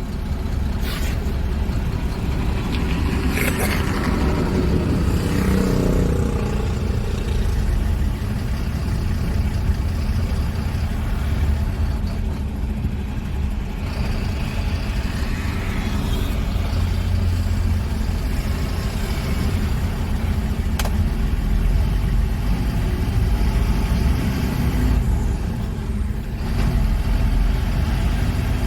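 Truck diesel engine running, heard from inside the cab as a steady low rumble.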